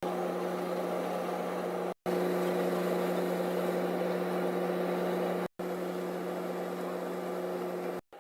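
Steady drone of engines and rushing air inside the cabin of a Porter Airlines Dash 8-400 turboprop in flight, with a constant low hum running through it. The sound cuts out briefly three times, at about two, five and a half and eight seconds in.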